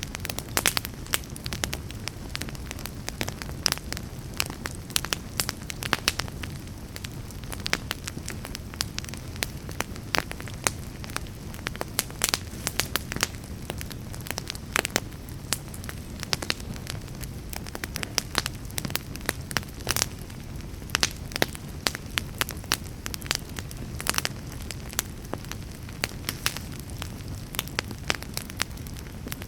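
Wood fire burning in a fireplace, with a steady low rumble of flames and many sharp, irregular crackles and pops.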